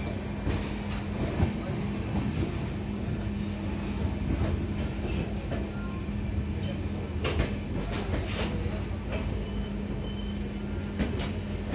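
Passenger train at the station platform heard from close by: a steady low rumble with a constant hum, broken by scattered sharp clicks and clanks.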